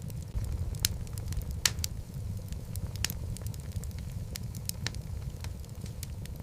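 Wood logs burning in a fireplace, crackling with irregular sharp pops and snaps over a low, steady rumble of the flames.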